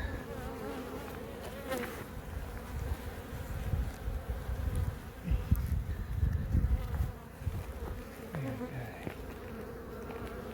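A colony of honeybees buzzing steadily around their hive in a tree cavity, with irregular low rumbling bursts, loudest near the middle.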